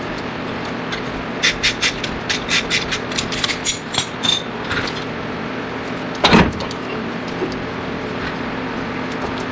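Hand tools clicking and clinking against steel suspension parts while a front steering knuckle is removed, then one heavy metal thud. All of it is over a steady mechanical hum.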